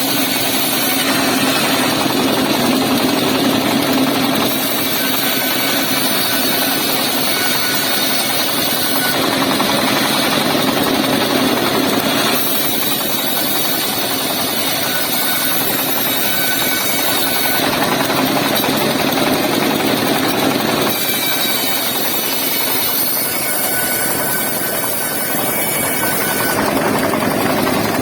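Car engine powering a wood saw, running loud and steady while the saw cuts through timber; the sound shifts abruptly every few seconds.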